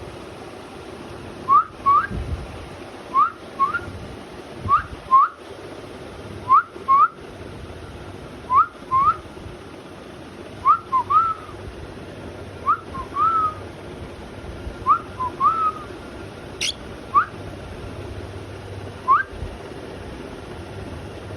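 Cockatiel whistling a repeated pair of short rising notes about every two seconds. The pairs later turn into longer, twisting phrases, with single notes near the end and one brief sharp chirp just after the middle.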